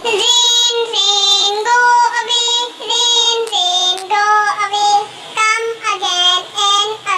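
A child's high voice singing a nursery rhyme, one held note after another.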